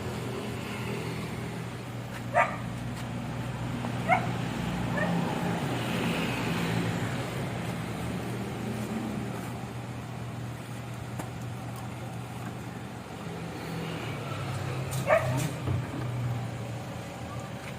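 A dog barking a few times, single barks spaced well apart, over a steady low mechanical hum.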